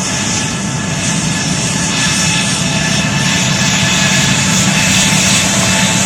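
Airliner jet engines running: a loud, steady rushing noise with several fixed whining tones, slowly growing a little louder.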